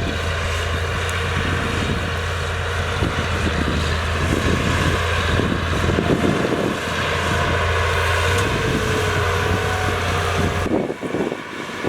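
Heavy diesel engine of earthmoving machinery running steadily under load, with a low hum. About ten and a half seconds in, the sound changes abruptly and the low hum drops away.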